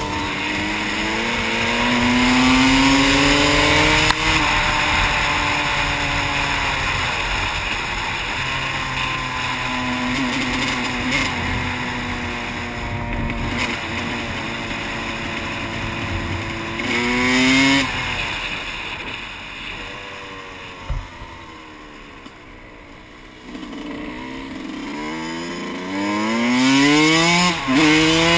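Yamaha YZ125 two-stroke single-cylinder dirt-bike engine under way, revving up and dropping back as the gears change. It eases off to a quieter spell just past the middle, then revs up hard again through quick shifts near the end.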